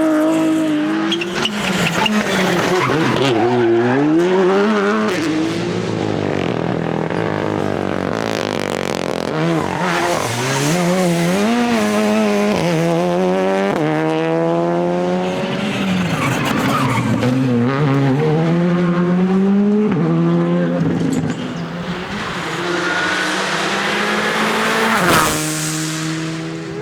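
Rally cars driven hard on a special stage, one after another: engines revving high through the gears and dropping on lifts and shifts, with tyre noise.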